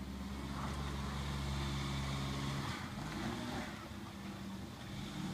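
Daihatsu Terios Kid's small engine pulling hard at steady revs as the little 4x4 climbs a steep dirt bank; a little under three seconds in the revs drop and change, then it settles into another steady note.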